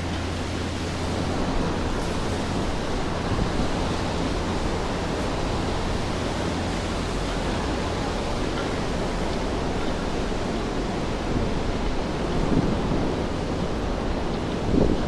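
Steady rainfall on a city street: an even hiss of rain and wet pavement. A low steady hum fades out about a second and a half in, and there is a brief louder swish near the end.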